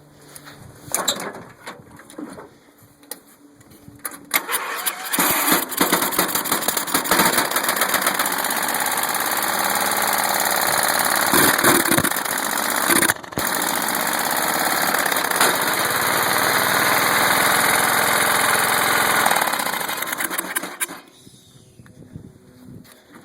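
Murray riding mower engine cold-started: it catches about four seconds in and runs steadily for about sixteen seconds before being shut off.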